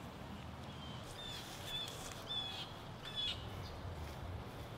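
A bird calling outdoors: a string of short, clipped calls about half a second apart, starting about a second in, over faint steady background noise.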